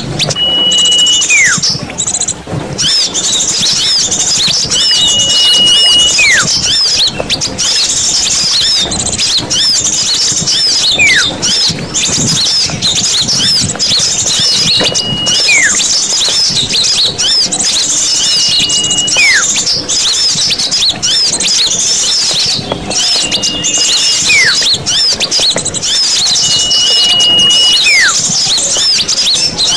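A bird-lure recording of small songbirds: a dense, continuous chatter of high chirps and twitters. Every four seconds or so a louder call cuts through, a held high note that drops into a downward-sliding whistle.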